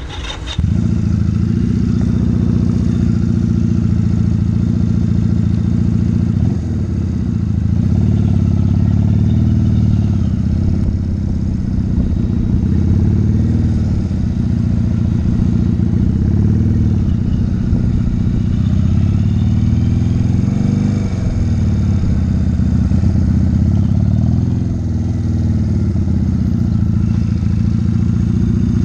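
Motorcycle engine pulling away about half a second in, then running at low speed with revs rising and falling through a slow weave and stop.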